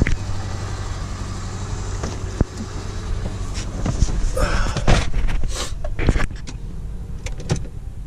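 Inside a moving car: steady low engine and road rumble, with scattered clicks and knocks.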